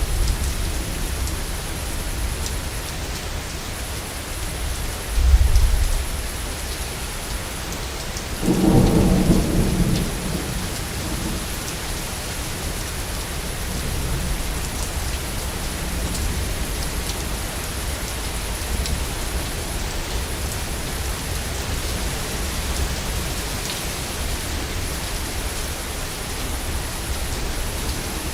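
Heavy rain falling steadily, with rolls of thunder: a short low rumble about five seconds in and a louder one about eight to ten seconds in.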